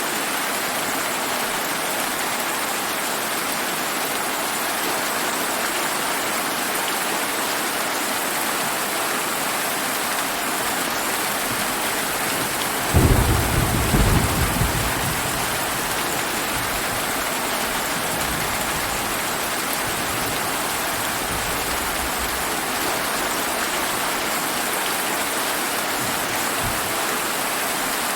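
Steady rain falling, with a sudden clap of thunder about halfway through that rumbles away over a few seconds.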